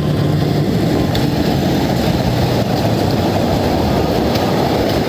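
Heavy truck engine running steadily, a dense low rumble.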